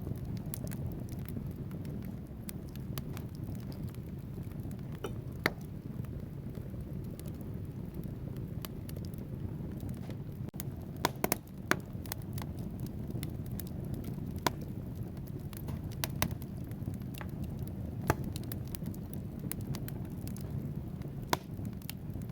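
Wood logs burning in a fireplace: a steady low rumble of flames with scattered sharp crackles and pops, including a quick cluster of pops about halfway through.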